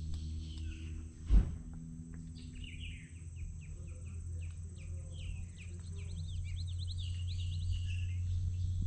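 Wild birds calling in a rapid series of short chirps and quick up-and-down whistled notes, over a steady low rumble. A single sharp knock sounds about one and a half seconds in.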